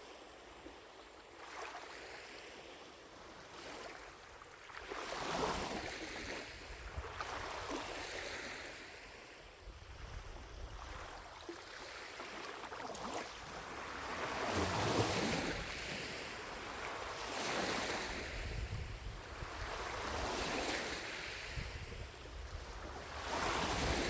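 Small lake waves lapping against the shore, one soft wash every two to three seconds. A low wind rumble on the microphone comes in partway through and is strongest in the second half.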